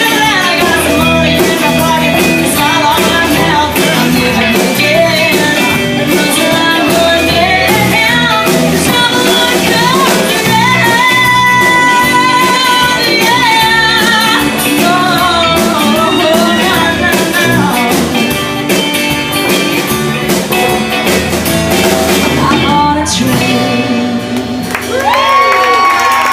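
A live band plays a country-blues song with a woman singing lead over acoustic guitar, the drums keeping a steady beat. The band stops about 23 seconds in, leaving a single voice near the end.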